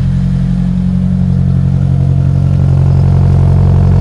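Freshly built 1.6-litre four-cylinder Peugeot 106 Rallye engine running steadily on its first start-up, getting slightly louder in the second half.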